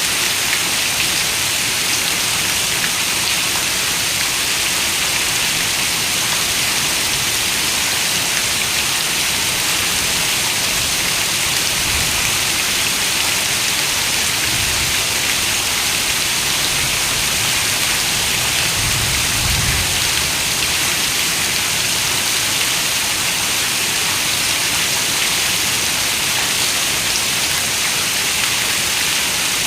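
Heavy rain falling on a window: a steady, even hiss of raindrops with no breaks.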